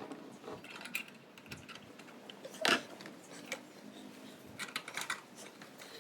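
Irregular light clicks and knocks, with one louder knock a little before halfway through.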